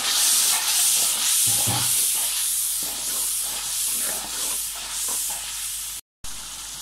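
Tomato paste and fried onions sizzling in hot oil in a kadhai while being stirred with a metal ladle; the hiss swells and fades with each stroke, about twice a second. It breaks off for a moment near the end and goes on more quietly.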